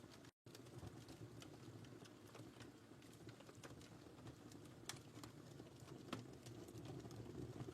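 Wood fire in a fireplace burning faintly, with a low steady roar and scattered sharp crackles and pops. The sound drops out completely for an instant near the start.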